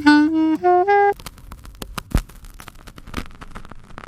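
Saxophone playing a short phrase of about five notes climbing in pitch, slow and deliberate, stopping about a second in. A scatter of sharp clicks follows, with one louder knock near the middle.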